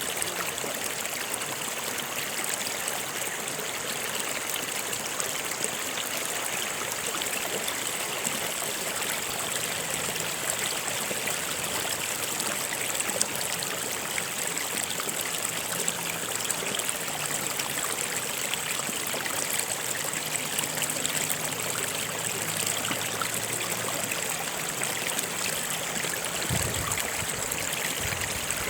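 Stream flowing steadily: a continuous rush of running water.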